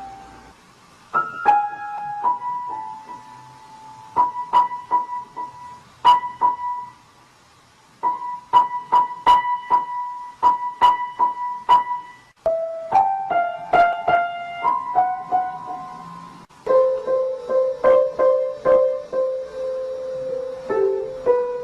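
Piano played one note at a time, in short runs separated by brief pauses, with many strikes on the same high note through the middle and lower notes ringing on near the end.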